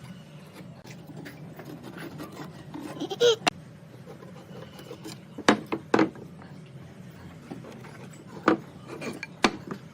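Hand woodworking: wood rubbing and scraping, with about five sharp knocks of wood on wood over a low steady hum.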